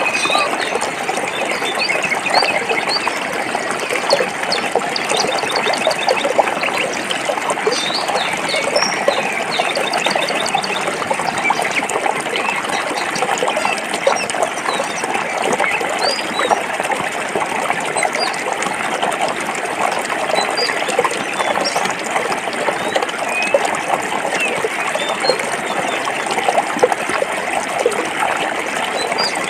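Forest stream running over rocks, a steady babbling and splashing. Birds chirp faintly above it, with short calls scattered through.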